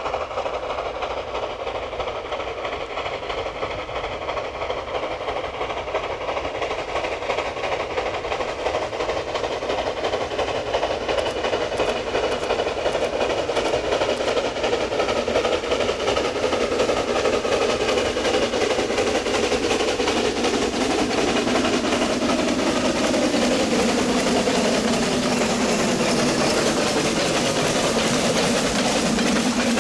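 Narrow-gauge C2 steam locomotive and its coal train running on the track, growing gradually louder. Over the last ten seconds several tones slide down in pitch.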